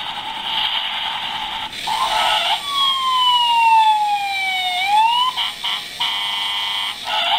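Battery-powered toy fire truck's electronic siren sound effect. It plays over the steady whir of the toy running: a tone glides slowly down, then sweeps quickly back up. Choppy pulses follow, then a steady horn-like tone near the end.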